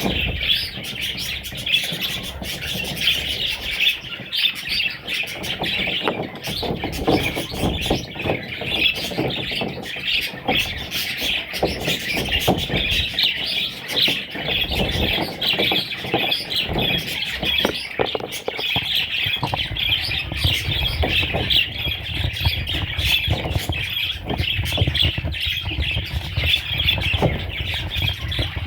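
A group of budgerigars chattering and chirping without pause, a dense warble of many overlapping calls, with scattered soft knocks mixed in.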